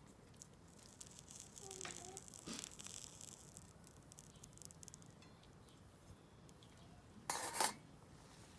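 Faint sizzling and crackling from cooking over a wood fire, with scattered light clicks. A short, louder clatter comes about seven seconds in.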